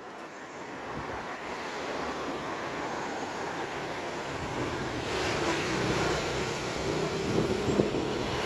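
A motor vehicle approaching and growing louder, its engine hum coming through more clearly in the second half, with a couple of short knocks near the end.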